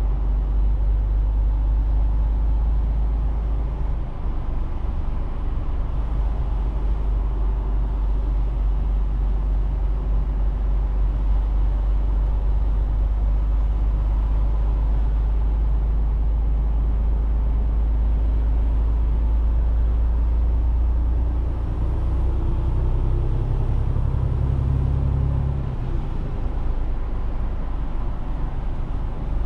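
Mercedes-Benz Actros truck's diesel engine running under way with road noise, a steady low rumble. About three quarters of the way through the engine note rises, then drops away suddenly a few seconds later.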